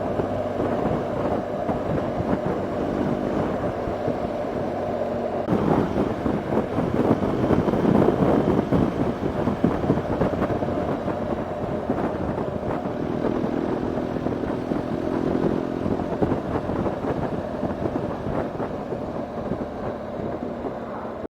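BMW GS motorcycle engine running on the move, with wind rushing over the microphone; the wind noise grows louder about five seconds in.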